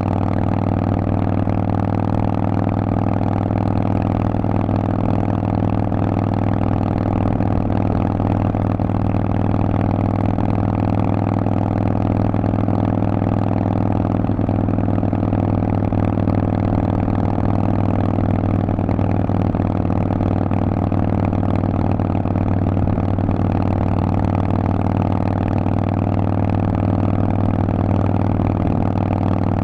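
Harley-Davidson Forty-Eight's air-cooled 1200 cc V-twin running at a steady engine speed through a loud Vance & Hines aftermarket exhaust.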